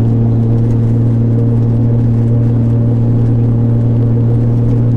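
Nissan Skyline GT-R R33's RB26 twin-turbo straight-six engine cruising at a steady pitch, an even drone with low road rumble beneath it.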